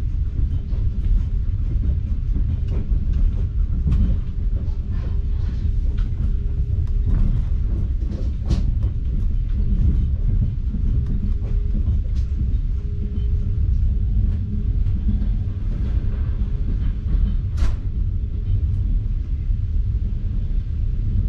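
Passenger train carriage in motion, heard from inside: a steady low running rumble with a faint intermittent hum and occasional sharp clicks and knocks, the sharpest near the end.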